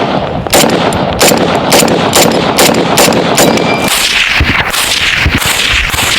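Supersonic rifle bullets cracking past, about seven sharp cracks roughly two a second, over a steady rushing noise. In the last couple of seconds the cracks stop and a few low thuds follow.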